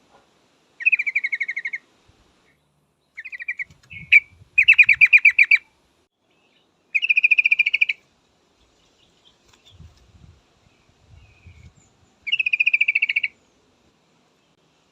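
Yellow-vented bulbul (trucukan), a female, calling in bursts of rapid chattering trills, about six in all, each lasting up to about a second with short pauses between. Faint low thumps sound in the gaps.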